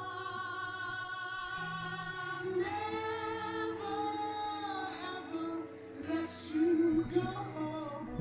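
A slow ballad sung solo, with long held notes that waver in pitch over a soft, low instrumental accompaniment. The notes grow shorter and more broken toward the end.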